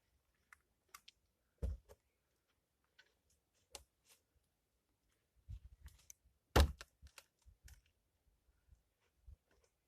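Scattered light clicks and knocks, with two louder thumps, one just under two seconds in and the loudest about two-thirds of the way through.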